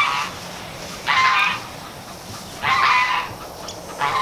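A farm animal calling over and over: short loud calls about every second and a half.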